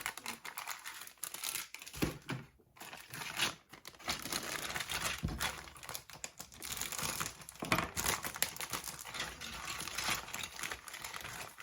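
Plastic bags around model-kit parts trees crinkling as they are handled and lifted out of the box, with a few soft knocks of plastic parts.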